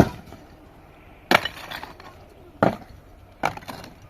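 Four sharp blows, a little over a second apart, each followed by a short clattering trail.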